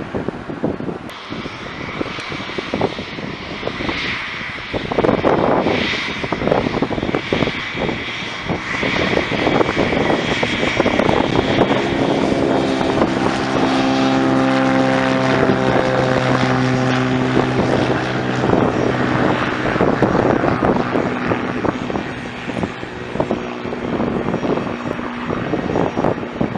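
Aircraft engine passing the airfield: a high steady whine in the first half, then a steady engine drone with a rich set of tones, loudest around the middle, fading toward the end. Heavy wind buffeting on the microphone runs underneath.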